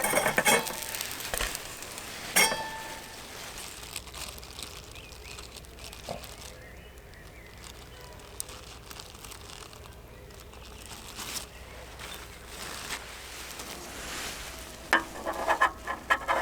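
Scattered clicks and crackles with some crumpling, loudest at the very start, about two seconds in, and in a quick cluster near the end, over a quiet stretch of faint background in between.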